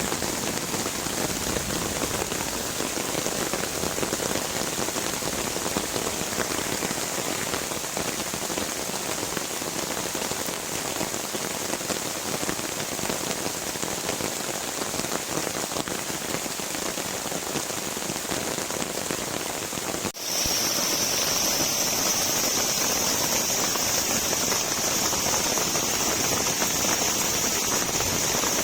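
Heavy rain falling steadily, an even hiss. About two-thirds of the way through it breaks off for an instant and resumes a little louder, with a steady high-pitched hiss on top.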